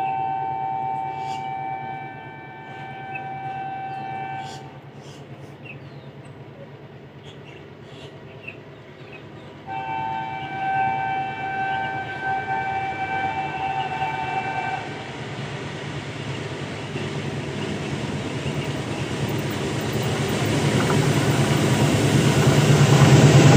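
Approaching locomotive sounding its two-note horn in two long blasts of about five seconds each, the second starting about ten seconds in. After that, the rumble of the train on the track grows steadily louder as it nears.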